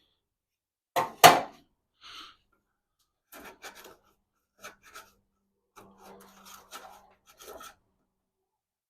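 Two sharp knocks about a second in, the loudest sounds, followed by scattered light clicks, scrapes and rubbing from objects being handled.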